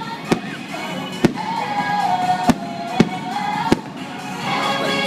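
Fireworks bursting: five sharp bangs spaced roughly a second apart, with a quick rattle of crackles near the end, over orchestral show music with a clear melody.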